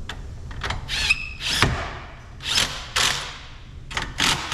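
Short scrapes and clanks of metal as the battery hold-down bracket and its rods are worked into place and pressed down, about eight separate sharp sounds.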